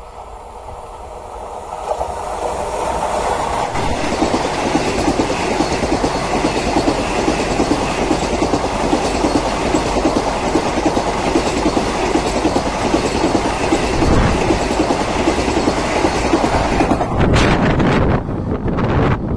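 A Vande Bharat Express electric trainset passing close at high speed: a loud rush of wheels on rail with rapid clattering over the rail joints. It swells about two seconds in as the train arrives and breaks off suddenly near the end.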